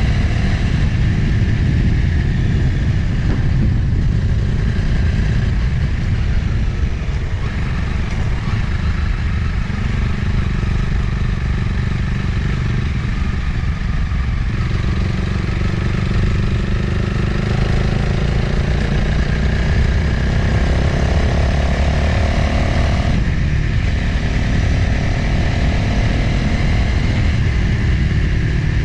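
Motorcycle engine running while riding, under heavy wind noise on the microphone. The engine note rises and falls slowly with speed and changes abruptly late on.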